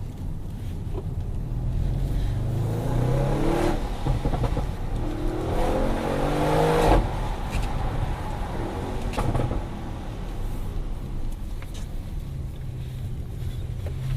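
Audi RS6's 4.0-litre twin-turbo V8 accelerating hard, its note rising steadily in pitch for about four seconds to a peak midway, then dropping off as the throttle is lifted. A few short exhaust cracks follow a couple of seconds later, and the engine settles to a steadier, lower drone near the end.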